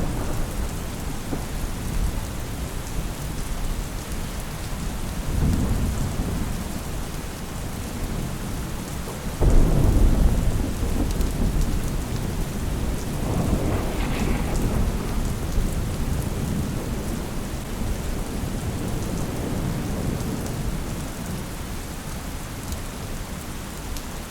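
Steady rain falling, with rolls of thunder rumbling over it; the loudest is a sudden, deep thunder roll about nine seconds in that fades slowly, with another swell of thunder a few seconds later.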